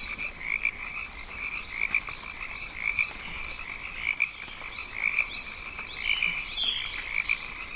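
Rainforest frog chorus: a continuous, pulsing band of calls, with short rising chirps repeating above it.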